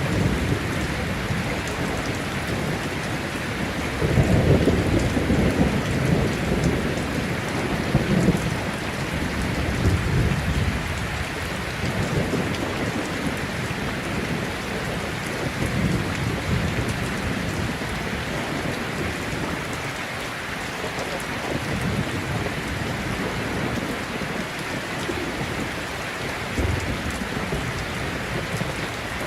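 Heavy rain falling steadily during a thunderstorm, with thunder rumbling low. The rumble swells most strongly a few seconds in and keeps rolling for several seconds, then comes back more faintly near the end.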